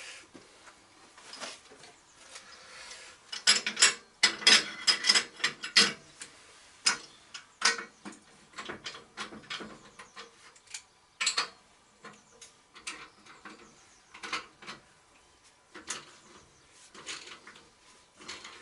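Irregular metal clinks and clicks of a large adjustable spanner being worked on nuts, with a busier, louder run of clicks about four to six seconds in.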